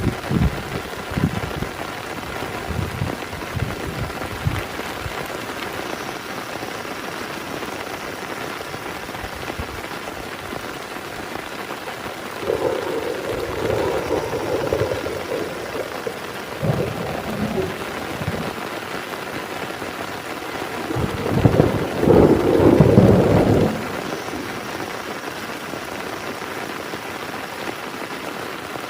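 Heavy rain falling steadily, with thunder rumbling several times; the loudest roll comes about two thirds of the way through.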